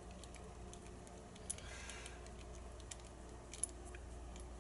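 Faint metallic clicks and light rattling from small tools and lock parts being handled while a padlock is taken apart, with two sharper clicks, the clearer one near the end.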